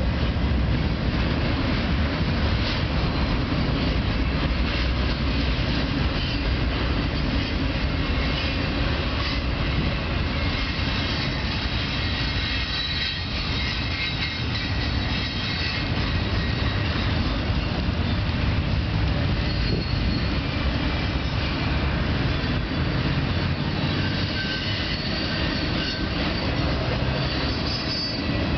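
Freight cars of a long intermodal train rolling past: steady rumble of steel wheels on rail, with faint high wheel squeal.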